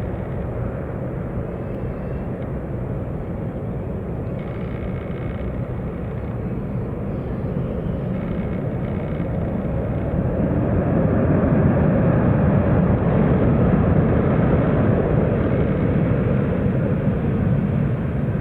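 Jet airliner coming in to land, its engine rumble growing louder from about ten seconds in and staying at its loudest near the end.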